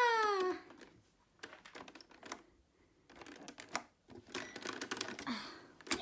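Irregular light clicks and taps of hard plastic around a toy microwave play set while it runs. A drawn-out falling voice sound opens the stretch.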